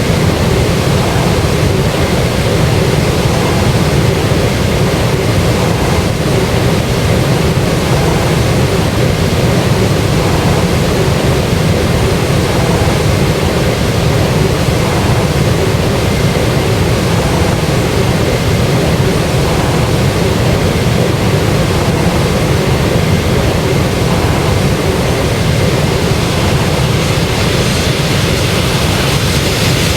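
Jet airliner running at steady power, a loud even roar of engines and rushing air that holds without change, with a faint steady hum in it.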